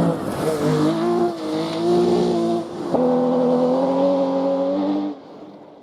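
Rally car engine pulling hard through the gears, its pitch rising and then dropping at upshifts about one and three seconds in, then fading away near the end.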